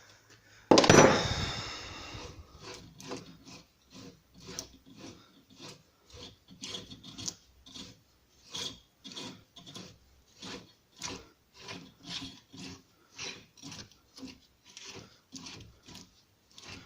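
A loud metal clank about a second in, then short rasping strokes about twice a second as the nut on a Renault Logan front strut's shock-absorber rod is unscrewed with a wrench, grating along the threads.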